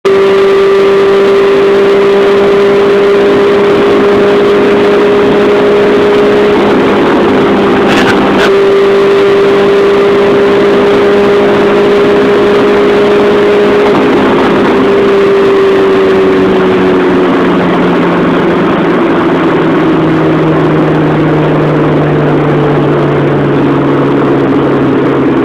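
Honda Integra's engine running at steady revs, heard from inside the cabin, its note holding level and then falling as the revs drop about fifteen to eighteen seconds in. Two brief clicks sound about eight seconds in.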